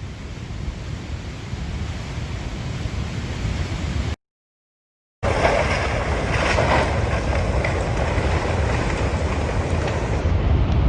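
Storm wind buffeting the microphone over a steady roaring rush. About four seconds in there is a second of dead silence, and the roar is louder after it.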